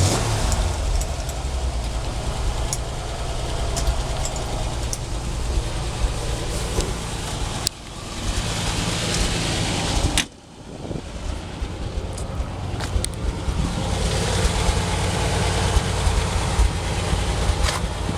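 1984 Jeep CJ8 Scrambler's engine running steadily, apparently at idle, with two brief sudden drops in level about eight and ten seconds in.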